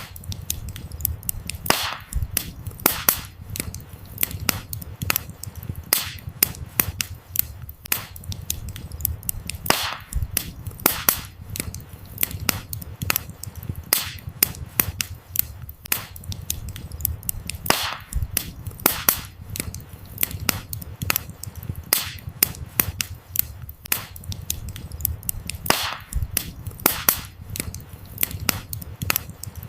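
Burning firewood in a campfire crackling and popping, with frequent sharp irregular snaps over a low steady rumble of the flames.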